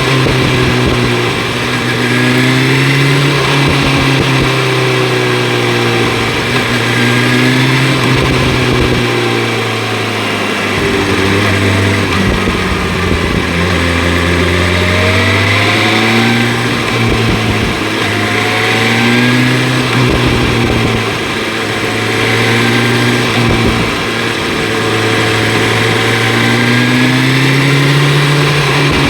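BMW S1000 RR inline-four motorcycle engine with an Akrapovic exhaust, ridden on the road: the engine note rises and falls repeatedly as the rider opens and closes the throttle, under a steady rush of wind noise.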